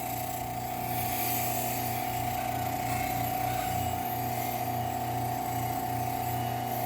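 Bench grinder fitted with a Scotch-Brite wheel running steadily, buffing rust off a knife blade, with a constant whine over a low hum.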